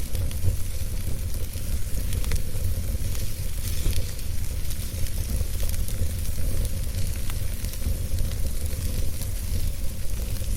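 Wood fire burning steadily, with frequent small crackles and pops over a continuous low rumble of the flames.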